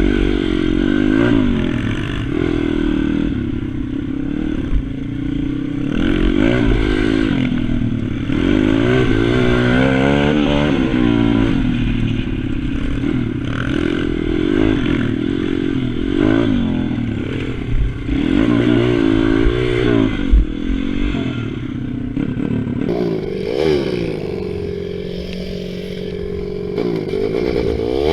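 Small single-cylinder pit bike engine on a track, revving up and down again and again through gears and corners. A few short clatters are heard near the middle.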